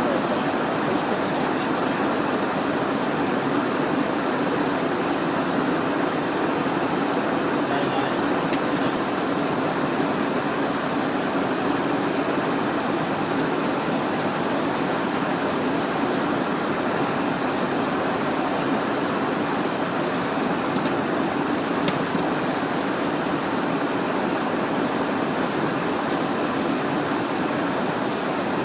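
Steady cabin noise inside a Cessna Citation Encore business jet in flight: an even rush of airflow over the airframe mixed with the drone of its turbofan engines. Two brief ticks sound, about 8 and 22 seconds in.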